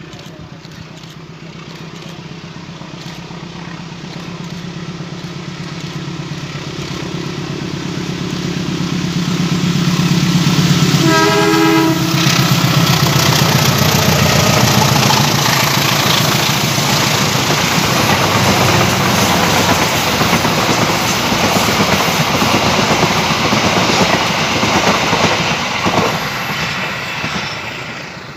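A CC201 diesel-electric locomotive hauling a passenger train approaches, its engine drone growing steadily louder. It sounds its horn in one short blast about eleven seconds in, then the carriages pass with wheels rumbling and clattering over the rails, fading away near the end.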